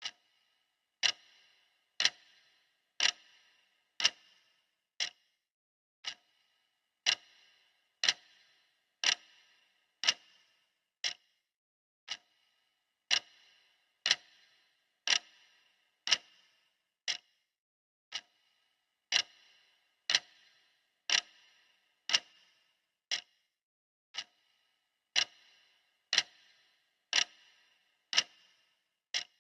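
Clock ticking steadily, one sharp tick a second, some ticks louder than others.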